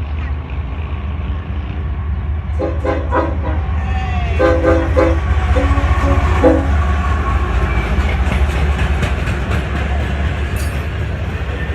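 Train passing close by with a steady low rumble of the locomotive and cars, the wheels clacking over the rails. The locomotive's air horn sounds a series of blasts about three to seven seconds in: two short, one longer, then two more short.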